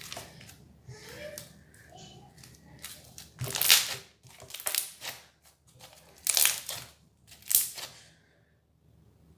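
Crunchy slime squeezed and worked by hand, giving bursts of crackling and crunching. The four loudest crunches come in the second half.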